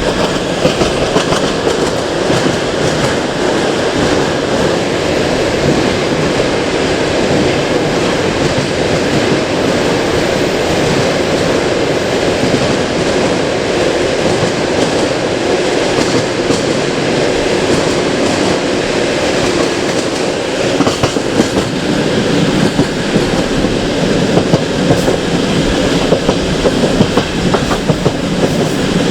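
Passenger train rolling along the track, heard from aboard: a steady rumble of the carriage wheels on the rails, with clacks from rail joints that come more often and stand out more in the last several seconds.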